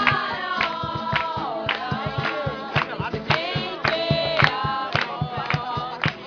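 A group singing a worship song together, with a steady beat of short sharp strikes under the voices.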